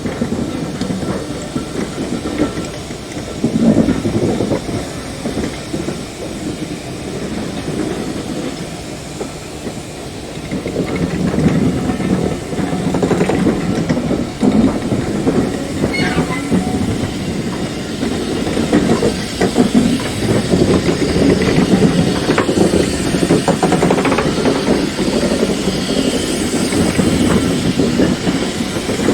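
Steam-hauled train running on the line: wheels clattering over the rail joints, with some steam hiss. It grows louder about ten seconds in.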